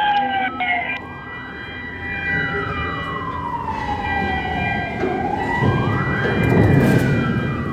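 A wailing siren, its pitch climbing quickly and then sliding slowly back down, twice, over a low machinery rumble that swells near the end.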